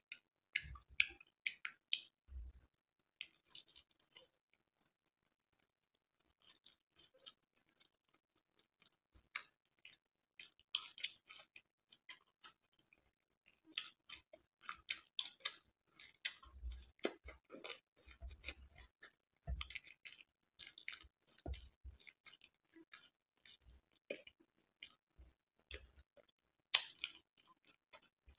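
Close-miked chewing of imrati, a syrup-soaked fried Indian sweet, heard as many short, irregular mouth clicks, with a sparser stretch about five to nine seconds in.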